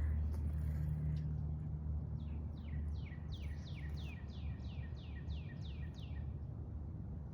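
A songbird singing a run of about a dozen quick down-slurred whistled notes, evenly spaced at roughly three a second, starting about two seconds in, over a steady low rumble.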